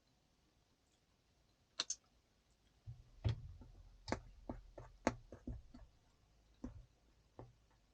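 Kitchen utensils and containers being handled: a quick double click, then a run of about a dozen irregular light clicks and knocks over a low bumping rumble.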